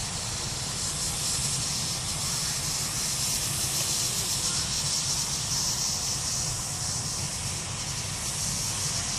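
Steady hiss of steam from a live-steam miniature locomotive, with a low rumble underneath.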